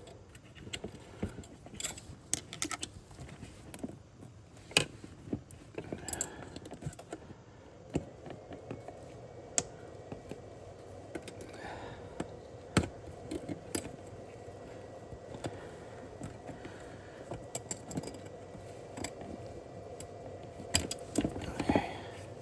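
Irregular small metallic clicks and rattles of a piece of wire being handled and wrapped to tie up a loose fan shroud piece, over a faint steady hum.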